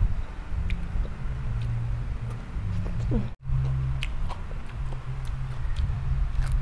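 A person chewing and crunching papaya salad and raw vegetables close to a clip-on microphone, with many short wet mouth clicks. The sound cuts out for an instant about halfway through.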